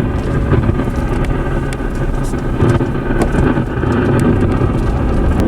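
Car driving, with a steady low road rumble and scattered sharp ticks.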